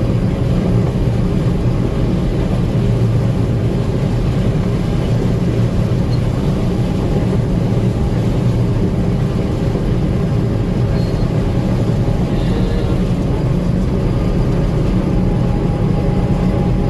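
Gleaner M2 combine running steadily while harvesting corn: a constant low engine and machinery sound that stays even throughout.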